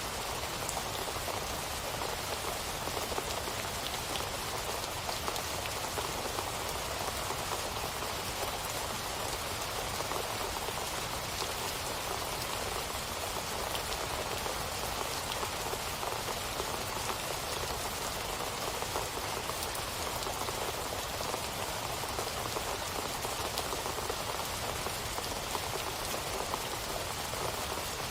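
Steady rain falling, an even patter with scattered individual drops.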